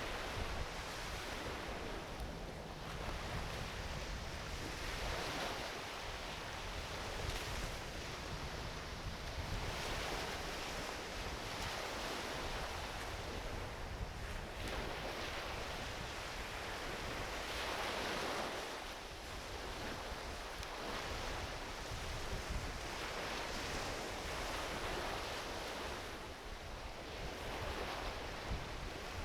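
Small ocean waves washing onto a beach, each swell of surf rising and falling every few seconds over a steady low rumble.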